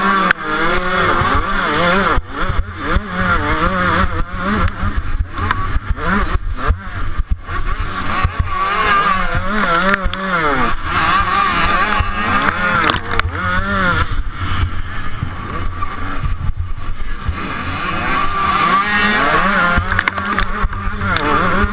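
125cc two-stroke motocross bike engine at racing speed, its pitch rising and falling again and again as the throttle is opened and shut, with a steady low rumble underneath.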